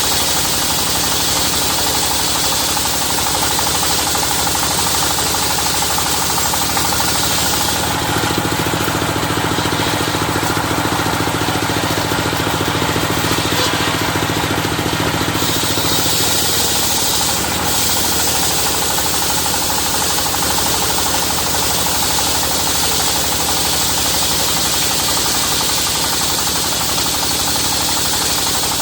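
Engine-driven circular sawmill running steadily, with a rapid knocking engine beat. From about eight seconds in, for roughly eight seconds, the sound changes: the hiss thins and a steadier hum comes up, as happens while the blade is in the cut.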